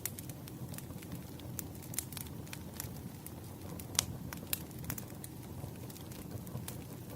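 Wood fire burning: a steady low rumble of flames with irregular sharp crackles and pops, the loudest snap about four seconds in.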